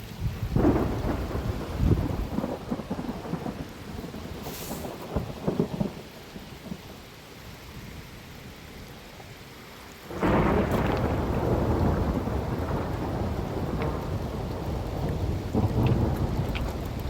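Thunderstorm: heavy rain with rolling thunder. The rain and rumble drop back after about six seconds, then grow suddenly louder about ten seconds in and stay loud.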